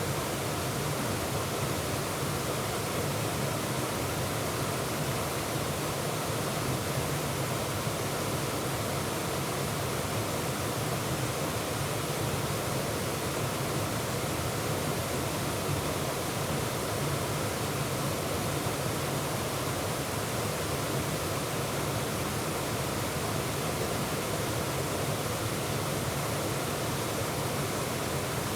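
Waterfall: water pouring steadily over the falls in an even, unbroken rush.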